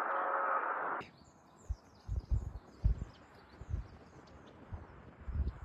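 Small birds chirping and twittering, with irregular low thumps, after a steady rushing noise that cuts off abruptly about a second in.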